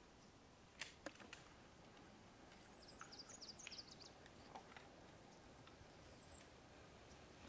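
Faint songbird chirps in quiet forest: a quick run of high, short, falling notes about two and a half seconds in and one brief high note near the six-second mark. A few soft clicks come about a second in.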